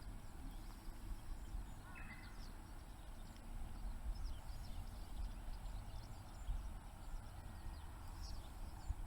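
Bamboo campfire burning with scattered small crackles and pops over a low outdoor rumble.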